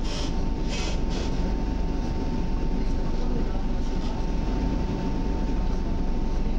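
EN57 electric multiple unit running along the line, heard from inside the carriage: a steady low rumble of wheels on rail with a thin constant whine on top. A few short hissing bursts come in the first second or so.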